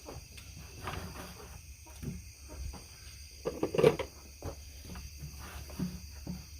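Crickets chirping steadily, with scattered clicks and knocks of quail eggs being picked up by hand and handled, the loudest clatter just before four seconds in.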